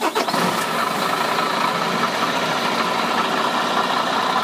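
MAN TGX 22.440 tractor unit's six-cylinder diesel engine idling steadily, with a short falling sound in its first moments.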